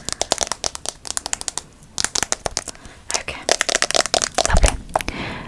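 Close-miked ASMR clicking and crackling: rapid, irregular clicks in clusters with short pauses between them, and a dull thump about four and a half seconds in.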